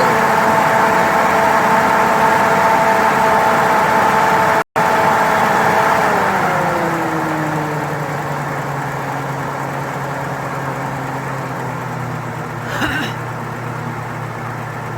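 1978 Chevrolet Nova's carbureted engine idling fast on its cold-start high idle. About six seconds in, the engine speed falls and settles at a lower, steady idle as the choke opens and the fast-idle cam drops to a lower step.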